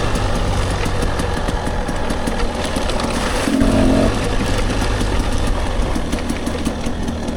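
Dirt bike engine running steadily under way on a rocky mountain trail, with tyre and wind noise over it. The engine note changes about three and a half seconds in.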